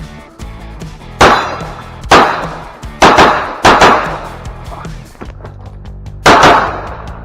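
Five 9mm pistol shots from a Glock 34, fired in an uneven string during a USPSA stage run, each with a short echoing tail. Background music plays under the shots.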